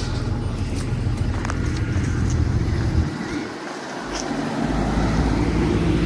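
School bus engine idling with a steady low rumble, which drops out a little after halfway and comes back about a second and a half later.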